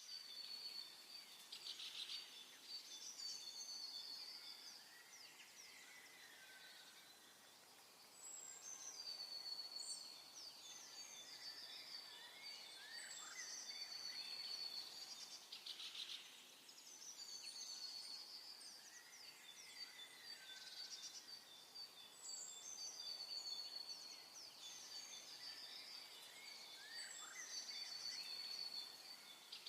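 Faint birdsong over quiet outdoor background: songbirds repeating high, trilled phrases every few seconds.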